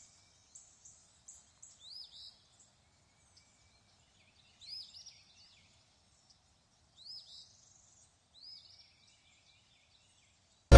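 Birds calling faintly: a quick run of short, high chirps in the first second or so, then a swooping call that rises and falls, repeated about every two to three seconds.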